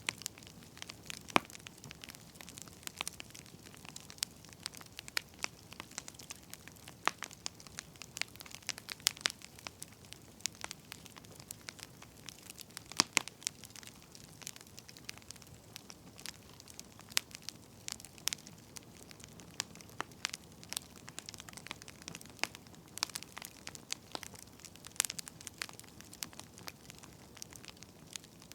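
Burning firewood crackling: irregular sharp pops and snaps, a few of them loud, over a soft steady hiss.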